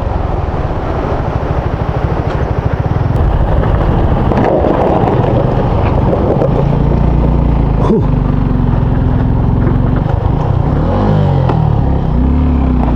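Motorcycle engine running under load on an uphill road, its pitch stepping up and down in the second half as the revs change, over a steady rumble of wind and road noise. A single sharp click comes about eight seconds in.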